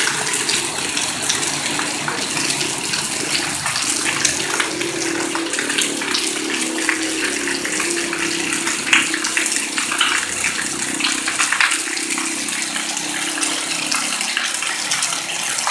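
Heavy rain pouring steadily, a dense hiss of drops striking and water running.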